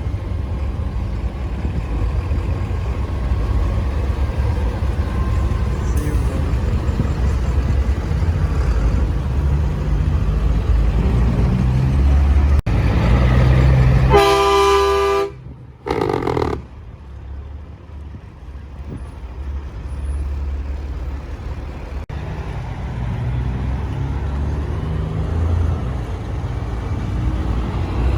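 Heavy diesel truck engines running with a steady low rumble. About halfway through, a truck air horn blasts for about a second, then a second, shorter blast follows.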